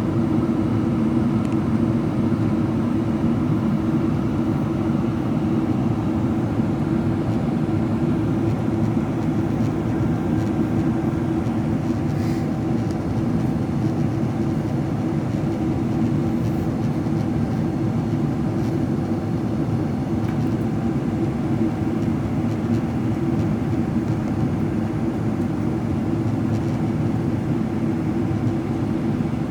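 Steady cabin noise inside a Boeing 777-300ER in descent: an even drone of airflow and its GE90 engines, with a few faint steady hums above it.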